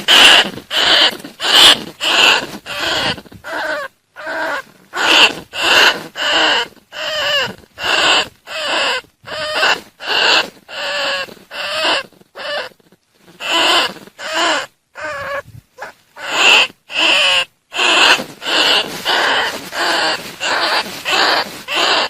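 Bandicoot rat calls: short, shrill squeaking chirps repeated about twice a second, with a few brief pauses. This is a lure-call recording for trapping bandicoot rats.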